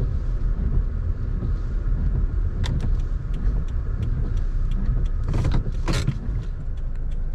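Car interior with steady low engine and road rumble as the car pulls off to the roadside. From about the middle there is a run of quick, regular ticks, and near the end two louder rustling or handling noises.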